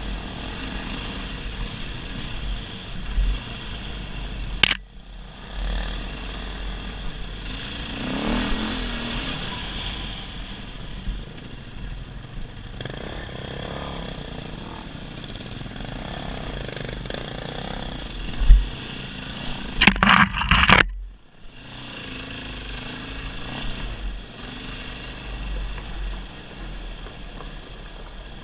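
Dirt bike engine running on a trail, with wind rumbling on the microphone. There is a sharp knock about five seconds in and a loud burst of knocks around twenty seconds in.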